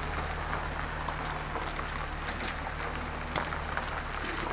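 Steady road noise inside a moving vehicle's cabin: a low engine and tyre drone under a constant rush, with a few faint clicks.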